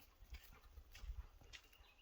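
Faint, irregular footsteps on muddy, icy ground: a few soft knocks, with a low rumble underneath.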